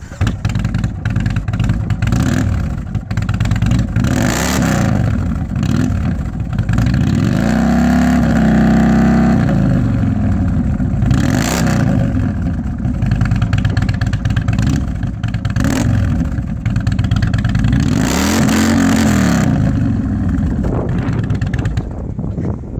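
Indian Chieftain's Thunder Stroke 111 V-twin running through Toxic Pipes Outlaw slip-on mufflers with the baffles in, giving a real deep tone. The engine idles between repeated throttle revs, with the longest held rev about eight seconds in and another near the end.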